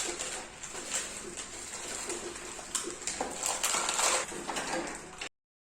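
Light clicks, taps and rustles of packets and small containers being handled as a refrigerator is emptied; the sound cuts off abruptly near the end.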